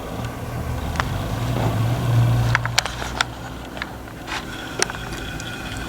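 A low vehicle rumble that swells to a peak about two seconds in and then fades, as a car passes, with a few sharp clicks scattered through it.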